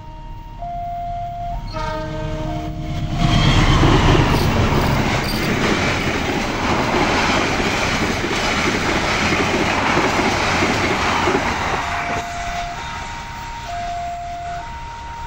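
Automatic level-crossing warning signal sounding a repeating two-tone chime. About three seconds in, a train runs loudly past over the crossing, its wheels and cars drowning the chime. The chime is heard again as the train clears, near the end.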